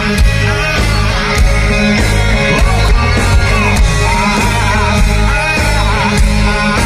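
Rock band playing live, loud and full, with heavy bass and drum hits under the guitars; about two and a half seconds in, a singer's wavering voice comes in over the band.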